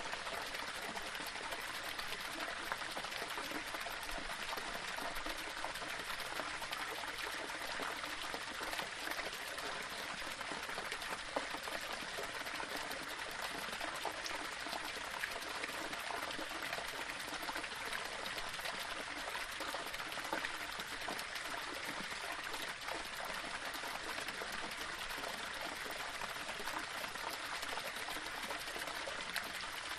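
Small waterfall: water trickling and splashing over rocks in a steady, even flow.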